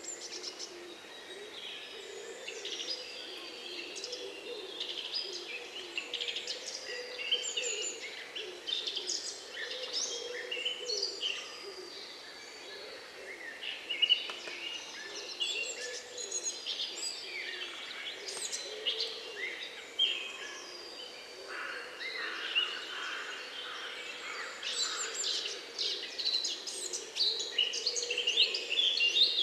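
Many wild birds singing and calling at once: a dense mix of overlapping chirps, trills and whistles, busiest near the end, over a low continuous sound beneath.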